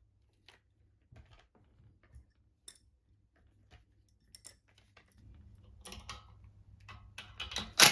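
Scattered light clicks and metal taps from handling the blower motor, its bracket and hand tools, getting busier over the last few seconds and ending with a sharp knock.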